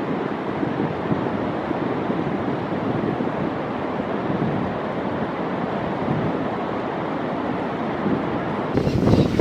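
Steady rush of open water with wind noise on the microphone. Near the end the noise turns suddenly louder and brighter.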